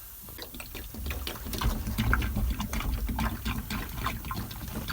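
Old water truck's engine running roughly: a low rumble with fast, irregular clatter that gets louder about a second in.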